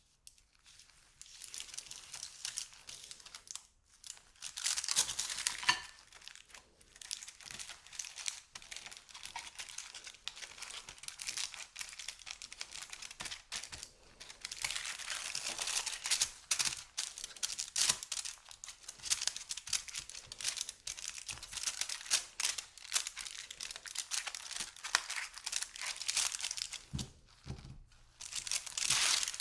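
Chocolate bar packaging being crinkled and torn open by hand, in irregular rustling bursts, loudest about five seconds in and again from about fifteen seconds.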